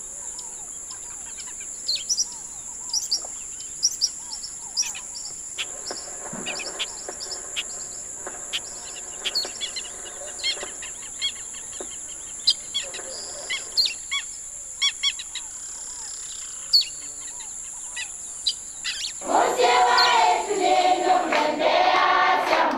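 Wild birds chirping and calling over a steady high hiss of outdoor ambience. About three-quarters of the way through, choir singing comes in and becomes the loudest sound.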